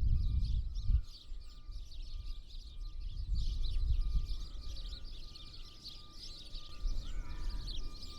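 Many small birds at winter feeders chirping and twittering continuously, with a low rumble of background noise underneath.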